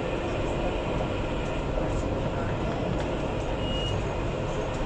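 Alstom Citadis 402 tram running along the track: a steady rumble of traction motors and wheels on rail, with a brief high tone about four seconds in.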